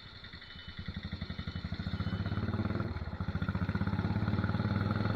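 Royal Enfield Desert Storm's 500 cc single-cylinder engine thumping through a loud aftermarket torpedo/megaphone silencer, in an even train of exhaust beats that get louder about a second in and again around three seconds in.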